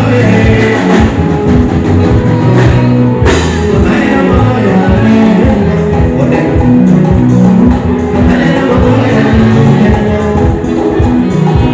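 Loud amplified live band music with drums, bass and a singing voice, playing continuously.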